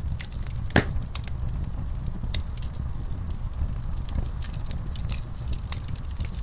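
Wood fire burning in a fireplace: a steady low rumble of flames with scattered crackles and pops, one loud pop just under a second in.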